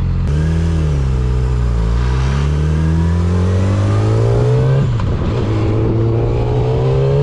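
Motorcycle engine accelerating under load, its pitch climbing, dropping at a gear change about five seconds in, then climbing again.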